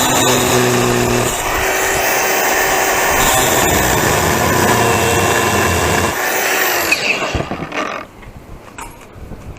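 A power tool running steadily on a brass water heater pressure-relief valve, its pitch shifting a little, then winding down and stopping about eight seconds in.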